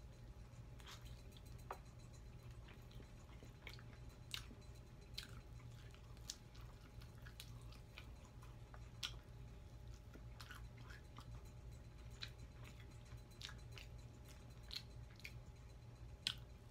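A person biting and chewing fried chicken wings close to the microphone: irregular small crunches and wet mouth clicks, over a faint low hum.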